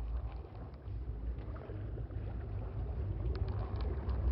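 Fishing boat's motor running steadily at trolling speed, a low rumble.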